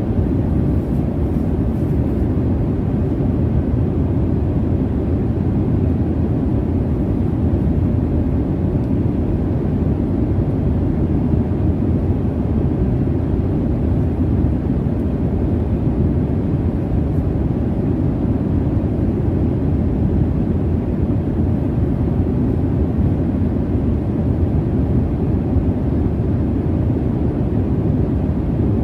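Steady jet airliner cabin noise in flight: an even, low rumble of engine and airflow, with little high-end hiss.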